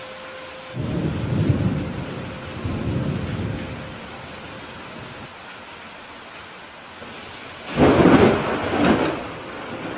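Steady rain falling through a thunderstorm. About a second in, a low thunder rumble lasts about three seconds. Near the end comes a louder, sharper thunderclap, with a second peak about a second later.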